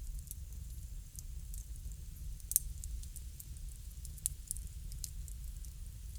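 Wood fire crackling, with irregular small pops and one louder pop a little over two and a half seconds in, over a low steady rumble.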